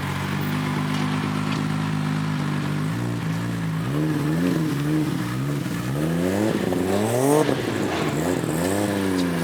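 Car engine idling steadily, then revved in a string of quick blips from about three seconds in, the highest rev about seven seconds in, and one more near the end.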